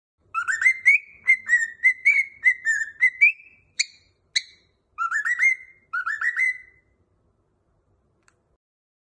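Cockatiel whistling a tune: a run of quick rising whistled notes, two short high chirps, then two shorter whistled phrases.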